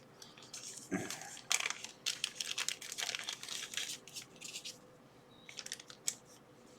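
Plastic packaging crinkling and rustling in irregular spurts with small clicks, quiet overall, as electronic parts are unwrapped and handled; it pauses briefly and resumes with a few clicks near the end.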